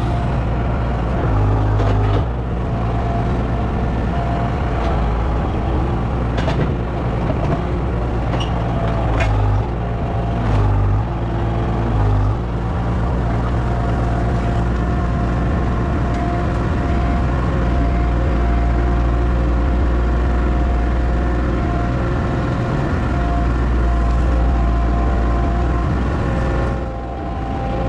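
An engine running steadily, its note stepping up briefly a couple of times, with a few faint clicks.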